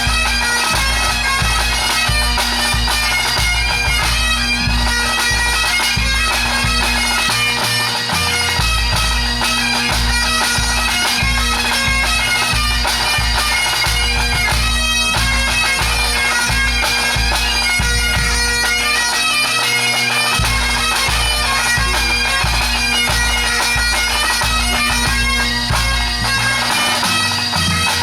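Full pipe band playing: Great Highland bagpipes sound a steady drone under the chanter melody, backed by the band's drum corps with a repeated bass drum beat.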